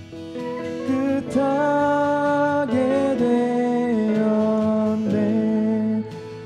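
Singing of the closing held phrase of a Korean worship song with acoustic guitar accompaniment. Long sustained notes change pitch a few times, then cut off about six seconds in as the song ends.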